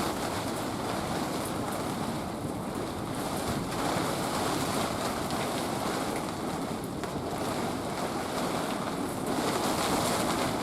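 Typhoon wind and rain beating on a tipi tent's canvas, heard from inside: a loud, steady rush that swells in gusts about four seconds in and again near the end.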